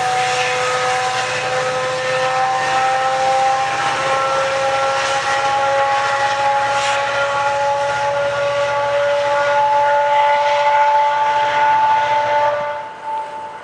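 GO Transit commuter train's diesel locomotive accelerating away, a steady whine over a low engine hum that rises slowly in pitch as the train gathers speed. The sound cuts off abruptly near the end.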